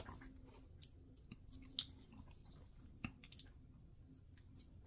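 Faint handling of small plastic model-kit parts: a handful of short sharp clicks and ticks as pieces are fitted together, the loudest near two seconds in.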